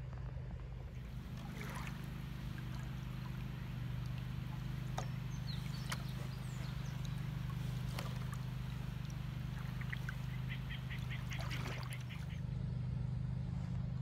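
Birds calling, with a quick run of repeated short calls about ten seconds in, over a steady low hum. Two sharp knocks sound in the middle.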